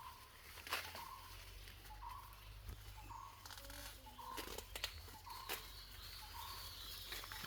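A bird calling a short, low note over and over, about once a second, with faint higher chirps and scattered clicks or rustles around it.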